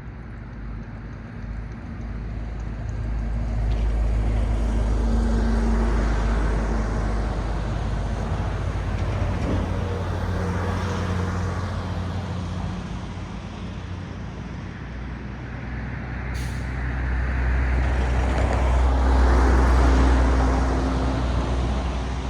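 Road traffic: motor vehicles passing close by, tyre noise and engine hum swelling to a peak about five seconds in and again, loudest, near the end. A brief sharp click or hiss sounds about two-thirds of the way through.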